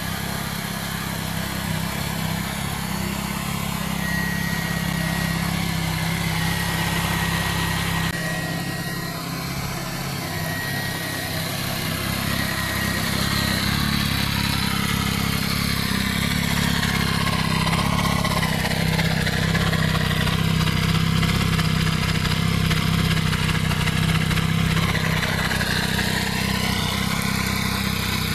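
Yamaha YZF-R9's 890 cc inline three-cylinder engine running through its exhaust, holding a steady pitch, with an abrupt change in the sound about a third of the way in.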